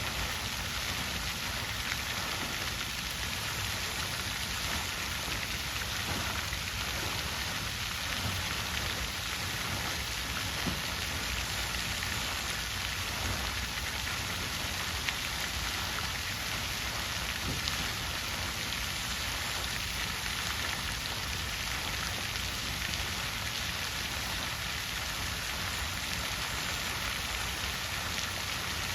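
Water fountain splashing steadily, an even hiss of falling water with a few faint drip ticks.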